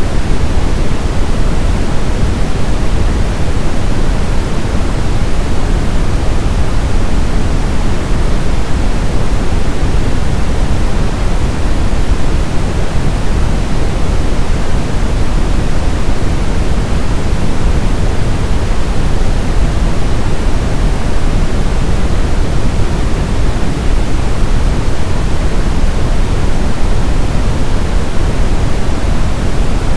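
Synthetic brown noise: a steady, even rushing hiss weighted toward deep bass, with no changes or events.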